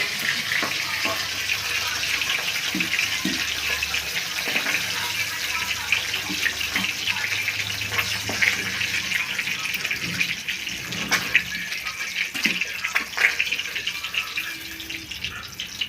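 Small fish frying in hot mustard oil in a kadai: a steady sizzle with crackles and a few sharper pops near the end.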